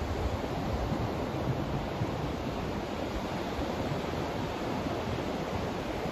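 Steady noise of a sleep track, a smooth, even hiss weighted toward the low end, like a deep rush, with no changes or events.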